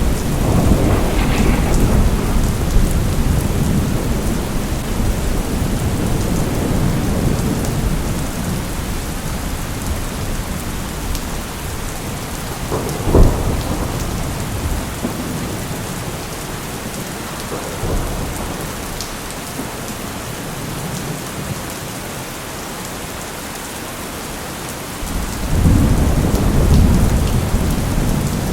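Steady heavy rain with rolling thunder: a rumble at the start that fades away, a sharp thunderclap about halfway through, a smaller one a few seconds later, and a fresh low rumble building near the end.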